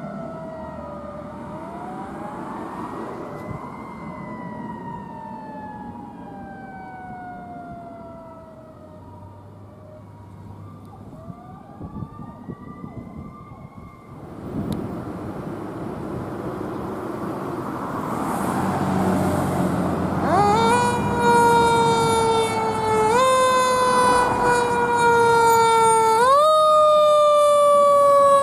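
Fire truck sirens responding. Siren tones wail up and down through the first half. After a cut about halfway in, a louder siren shoots up sharply and winds down slowly, over and over about every three seconds, growing louder as it nears.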